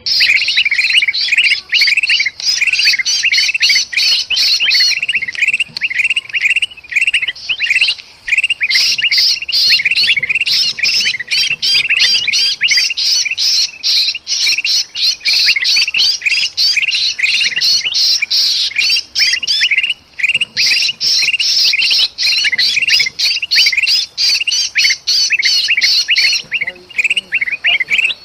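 Bulbuls (kutilang) chattering in agitated alarm, a dense stream of rapid, harsh calls with hardly a break, mixed with the distress cries of a trapped bulbul. The higher calls drop out briefly near the end.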